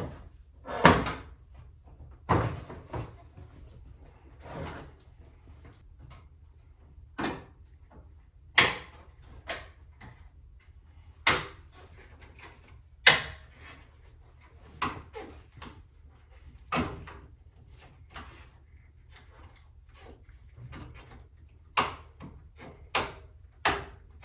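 Irregular knocks, clicks and clunks of plastic and metal car body parts being handled and fitted while reassembling a car's front end, over a faint low hum.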